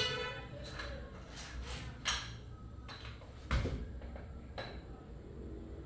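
Metal tools and engine parts being handled on a work surface: a string of separate clinks and knocks, the loudest a heavier knock with a dull thud about three and a half seconds in.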